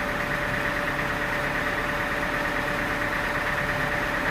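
Sawmill machinery running steadily at an even, unchanging pitch, with a constant engine-like hum.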